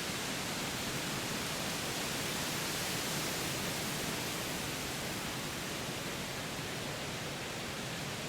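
Steady wind rushing through forest trees, swelling slightly a few seconds in and easing again.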